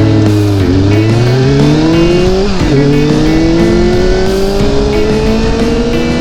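Honda CBR400RR's inline-four engine accelerating hard and shifting up: the engine note climbs, drops sharply with a gear change about two and a half seconds in, then climbs again to another shift at the end. Background music plays underneath.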